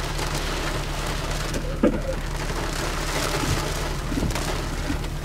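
Heavy rain on a car's roof and windshield, heard from inside the car as a steady hiss over a low hum.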